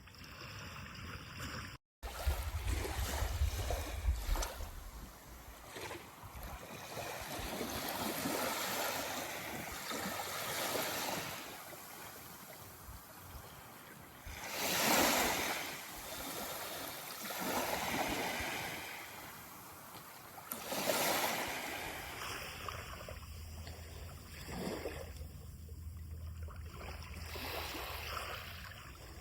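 Sea of Japan surf: waves breaking and washing up a sandy beach, the rush rising and falling with each swell. The biggest breaks come about halfway through and again a few seconds later. The sound cuts out completely for a moment about two seconds in.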